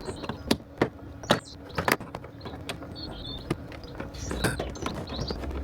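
Plastic door trim of a Peugeot Partner van being prised off with plastic pry tools: a string of irregular sharp clicks and snaps as the trim clips let go.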